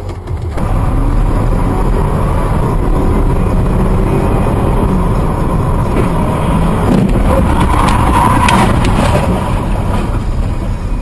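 Car driving, with steady engine and road noise and a few faint clicks partway through.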